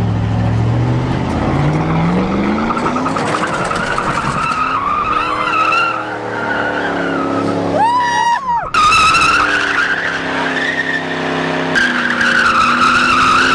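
A truck's engine revs up and its tyres squeal through a drift, the squeal wavering in pitch and breaking off briefly about eight seconds in before picking up again.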